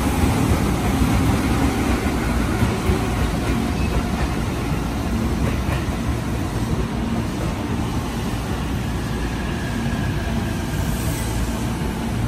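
Tobu Noda Line electric train running away along the station tracks: a steady rumble of wheels on the rails and motor hum, slowly fading as the train recedes.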